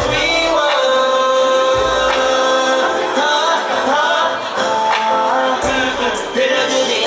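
Live pop/hip-hop song: a sung vocal line over a backing track, with heavy bass hits that drop in and out every second or two.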